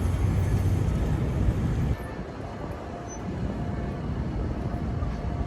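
Steady low rumble of a moving vehicle, which cuts off abruptly about two seconds in, leaving quieter background noise.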